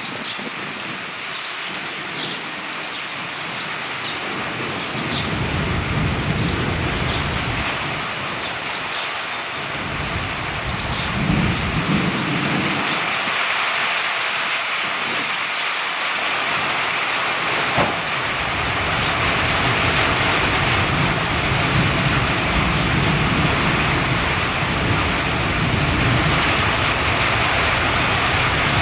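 Steady heavy rain, with thunder rumbling twice in the first half and then rolling almost without a break through the second half.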